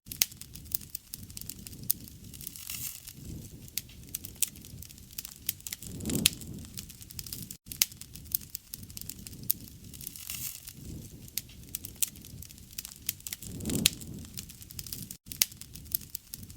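Campfire crackling, with frequent sharp pops over a low rumble of burning that swells every few seconds. The sound cuts out for an instant twice.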